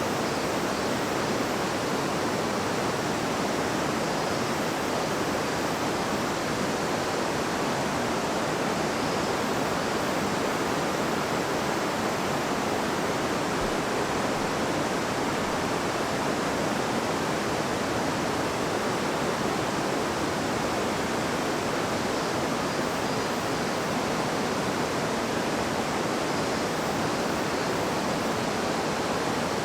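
River water babbling and rushing, a steady, even flow of noise without breaks.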